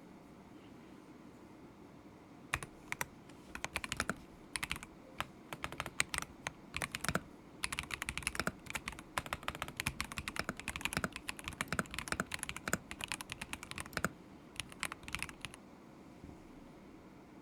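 Typing on a stock KZZI K75 Pro mechanical keyboard with Moment linear switches, in irregular bursts of keystrokes. The typing starts about two and a half seconds in and stops shortly before the end.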